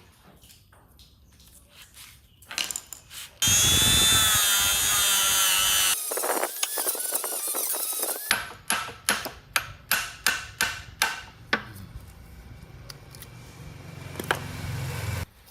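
A workshop power tool runs loudly for a few seconds, then a rapid run of sharp knocks follows, about three a second. A steady motor hum grows louder near the end and cuts off suddenly.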